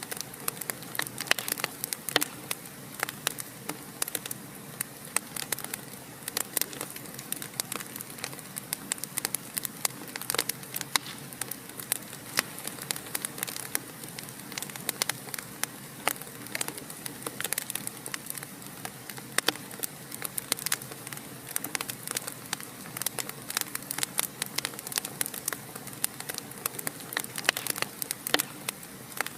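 Wood fire crackling in a fireplace: a constant scatter of sharp pops and snaps over a steady soft hiss of burning.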